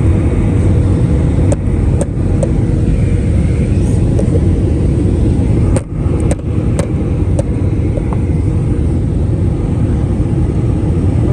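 Airbus A319 cabin noise during descent: a loud, steady rush of airflow and engine noise. Over it come a few short clicks or rattles, most of them around the middle.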